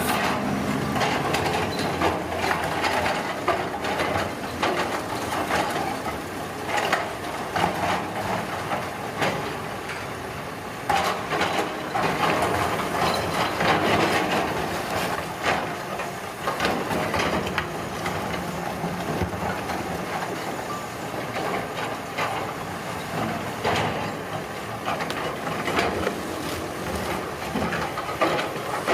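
Heavy road-construction machinery running, with frequent knocks and scraping over a steady engine noise.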